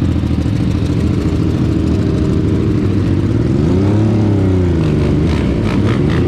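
Motorcycle engines running steadily, one revving up and dropping back down about four seconds in.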